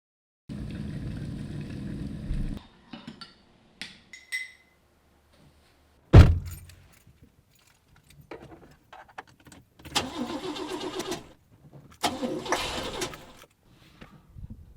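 Car sounds: a stretch of steady engine-like noise, small clicks and a jingle like keys, one loud thump about six seconds in, then two bursts of engine noise.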